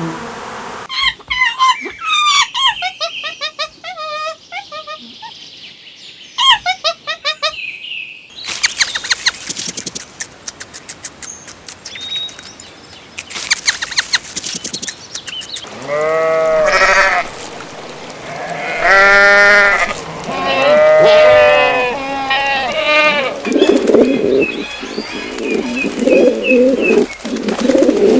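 A string of animal calls: rapid bird chirps for the first several seconds, then a fast train of clicks, then several loud, wavering bleats. A lower, rougher animal call follows near the end.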